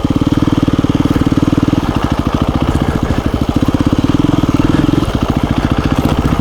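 KTM 350 EXC-F dirt bike's single-cylinder four-stroke engine idling steadily, an even fast putter with no revving.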